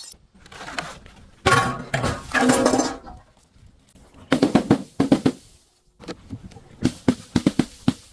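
Crushing of brittle, crunchy objects: three bursts of rapid cracking and crunching, each about a second long, with short quieter gaps between.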